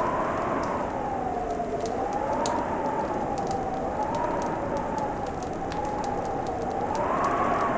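Fireplace crackling with scattered sharp pops over a steady hiss. Behind it runs a whistling tone that slowly rises and falls, like wind howling.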